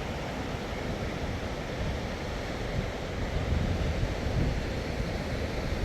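Steady rushing of fast-flowing water, with wind buffeting the microphone in low, uneven gusts.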